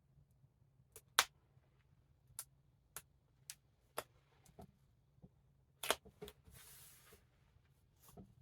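Duct tape being peeled slowly off a book's plastic-coated cover: scattered faint clicks and crackles, with a brief soft rasp about two-thirds of the way through.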